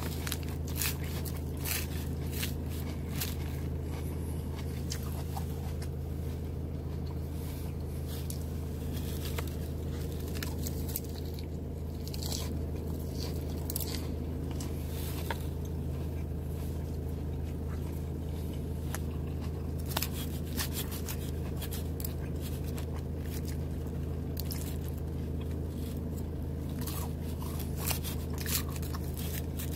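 Close-up chewing and crunching of salad, with irregular crisp crackles and clicks scattered throughout, over a steady low hum.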